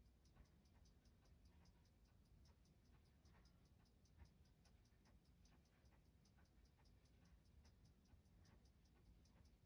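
Faint, fast, even ticking of a Seiko 6139 automatic chronograph movement running, about six ticks a second.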